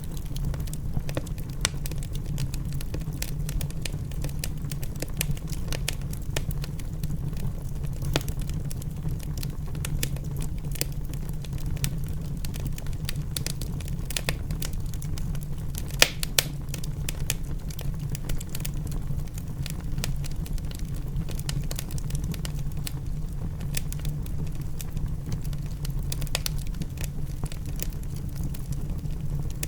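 Wood fire crackling in a fireplace, with frequent small pops and one louder pop about halfway through, over a steady low rumble.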